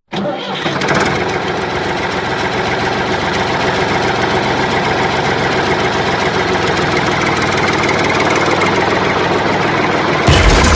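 Small motor of a DIY mini tractor running steadily with a fast rattle, growing slightly louder; the sound changes abruptly near the end.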